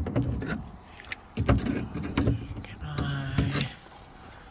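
Vice grips clicking and clinking on a stuck lock-cylinder retaining nut, with three short strained grunts of effort from the man pulling on them.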